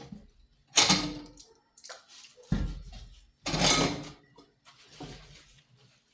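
Household items being handled and set down: four knocks and clatters, the second a heavier, deeper thud.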